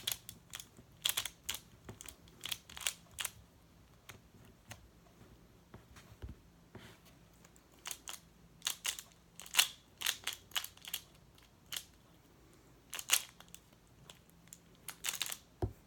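Plastic clicks and clacks of a magnetic Pyraminx puzzle being turned fast by hand, in irregular runs of quick turns with short pauses between.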